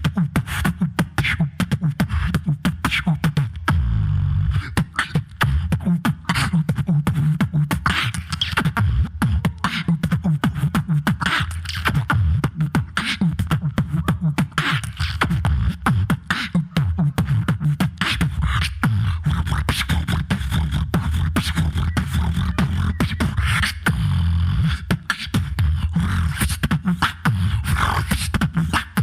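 Solo beatboxer performing into a microphone: fast, dense percussive clicks and snares over a continuous deep bass line.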